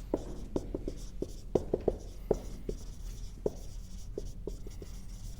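Marker writing on a board: a quick, irregular run of short squeaks and taps from the tip as strokes are drawn, over a low steady hum.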